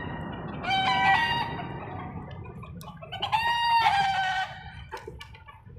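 Rooster crowing twice, a short call about a second in and a longer one about three seconds in, over a steady background hiss.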